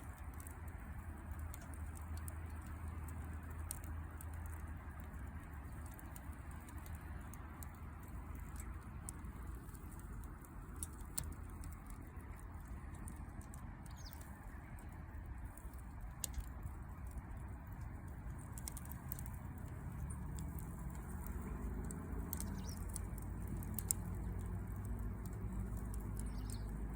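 Wood campfire crackling, with scattered sharp pops over a steady low rushing noise.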